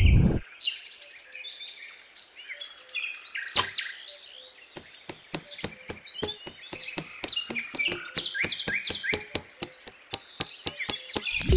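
Hammer tapping blue rods down into sand: a single sharp tap about three and a half seconds in, then a steady run of light taps, about four a second, over birds chirping.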